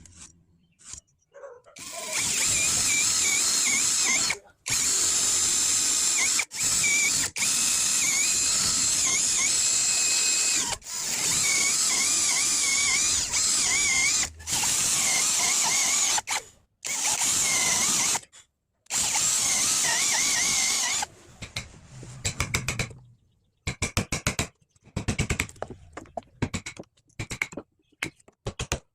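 Power tool, most like a drill, running in a series of long bursts that start and stop abruptly, with a wavering whine over its hiss. Near the end it gives way to short bursts of rapid clicking.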